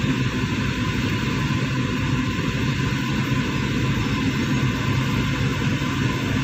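Steady hum inside a car's cabin from the idling engine and running air-conditioning fan, level and unbroken.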